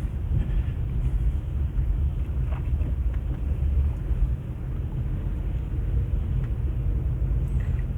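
Steady low rumble of a car's engine and road noise heard from inside the cabin while driving on a snow-covered road.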